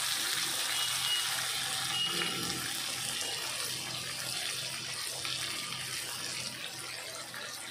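Sliced onions, curry leaves and garlic sizzling in hot oil in a kadai, a steady hiss that slowly grows a little quieter as tomato pieces go into the pan.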